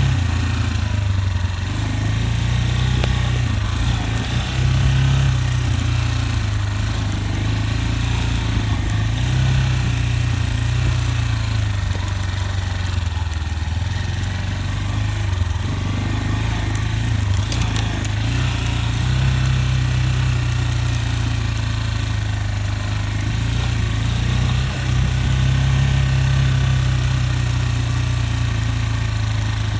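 Motorcycle engine running steadily at low revs, its pitch rising and falling slightly now and then.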